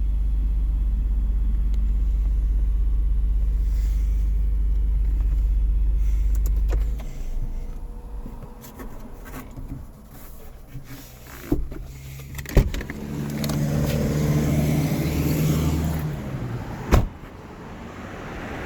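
2007 Lexus GS350 sunroof stuck partway and failing to open or close: a steady low hum for about seven seconds, then several sharp clicks and a few seconds of electric motor hum from the sunroof mechanism.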